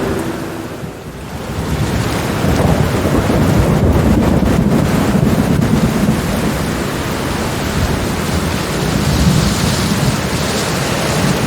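Steady heavy rain with a long roll of thunder. The rumble builds about two seconds in, crackles in the middle and slowly eases off.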